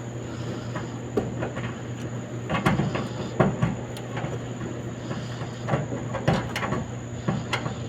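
A steady mechanical hum with irregular knocks and clattering, in clusters about two and a half, six and seven and a half seconds in.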